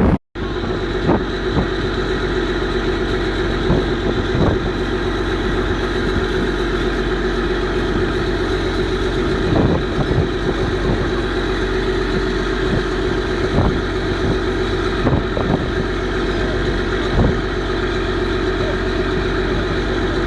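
Boat engine running at a steady speed, a constant hum with a few short knocks scattered through it.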